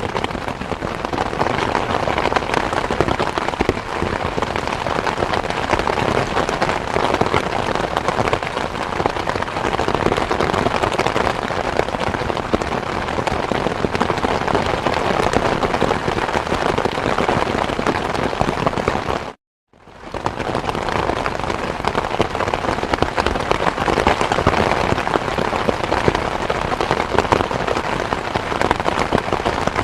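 Steady heavy rain, a dense, even patter. About two-thirds of the way through, it cuts out completely for about half a second and then fades back in.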